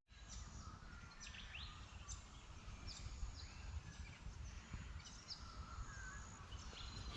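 Faint outdoor ambience: a low steady rumble with scattered short bird chirps throughout.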